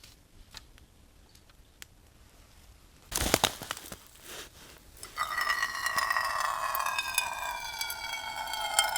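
A brief loud rustle or crinkle about three seconds in, then water poured in a steady stream into a container, with a pitched ring that slowly falls as it runs.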